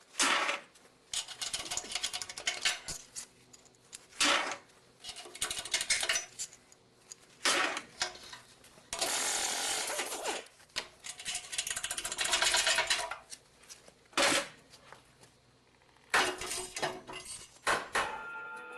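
Metal hand tools and diesel engine parts clinking, knocking and rattling as the engine is taken apart, with two longer stretches of rapid rattling about nine and twelve seconds in.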